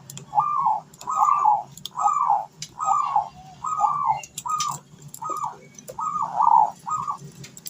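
A dove cooing: a series of short arched coos, about one a second, used as a call to lure other doves into singing.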